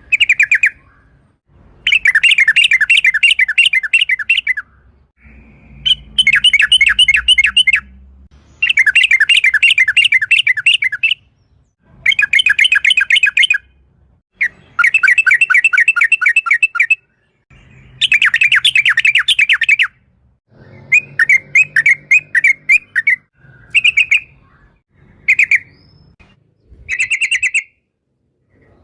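Yellow-vented bulbul (trucukan) singing its fast rolling chatter: long phrases of rapid repeated notes, each two to three seconds, coming one after another with short pauses, and a few brief phrases near the end.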